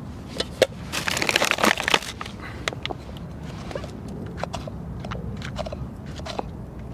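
Campfire crackling with scattered sharp pops, and a dense burst of crunching lasting about a second, starting about a second in.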